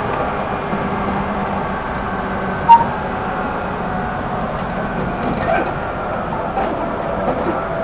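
Steady hum and noise inside a JR 211 series 5000 electric multiple unit car, with a few held tones. A single sharp click comes about a third of the way in.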